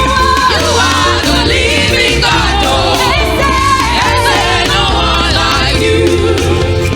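Gospel choir singing with band accompaniment: several voices with wavering pitch over a steady low bass line.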